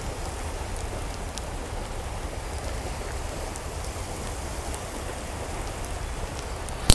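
Steady rain falling, with a few faint, sharper drop ticks scattered through it. A single loud sharp click comes right at the end.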